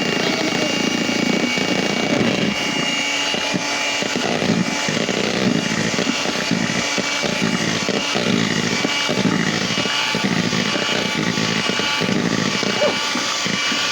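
Electric hand mixer running steadily, its beaters whipping chocolate pudding mix and milk in a bowl: a steady motor whine over an uneven churning.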